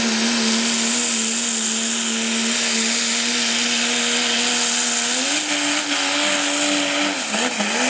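Diesel pickup truck engine held at high revs under load while pulling the sled, one steady high note with a hissing upper layer. The pitch steps up about five seconds in, then wavers and drops near the end as the run goes wrong.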